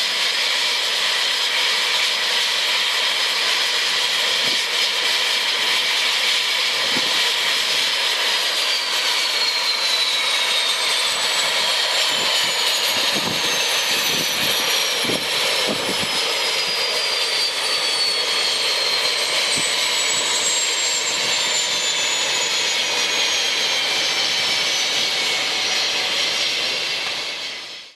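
Cessna Citation CJ1 turbofan engines running with a high whine over a broad jet rush; from about eight seconds in, several whine tones slide slowly downward in pitch. The sound cuts off abruptly at the very end.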